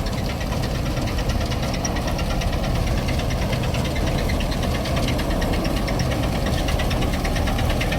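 Diesel farm-machinery engine running steadily, with a rapid, even clatter over a low rumble.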